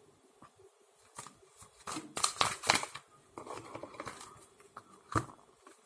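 Tarot cards being handled on a table: a quick run of sharp snaps and flicks about two seconds in, a soft rustle of cards after it, and one more sharp snap of a card near the end.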